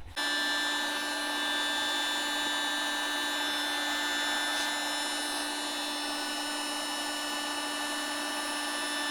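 Small quadcopter drone hovering, its electric motors and propellers making a steady multi-toned whine.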